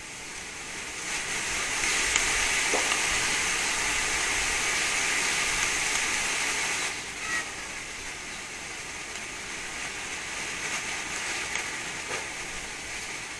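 Wind gusting: a steady rushing that swells about a second in and eases off around seven seconds.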